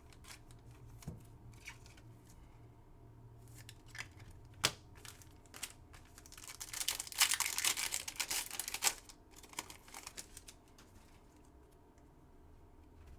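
Foil wrapper of a 2022 Select football card pack being torn open and crinkled, a dense tearing rustle lasting about three seconds in the middle. Scattered light clicks and taps of cards being handled come before and after.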